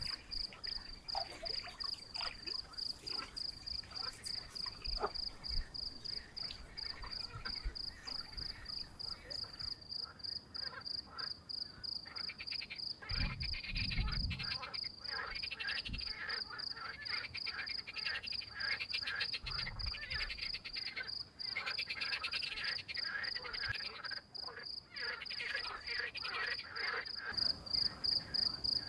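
Frogs croaking in a dense chorus, thickest from about a third of the way in until near the end, over a steady, high, fast-pulsing trill. A brief low rumble comes near the middle.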